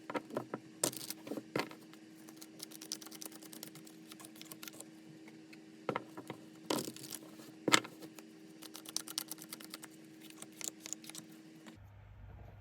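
Tarot cards being handled: a run of quick clicks, taps and slaps as the cards are shuffled and laid down, over a steady low hum that cuts off near the end.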